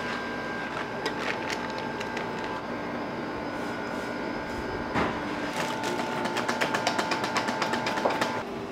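Shop receipt printer running, with a fast even ticking over a steady whine for about three seconds that stops abruptly near the end, after a few scattered clicks.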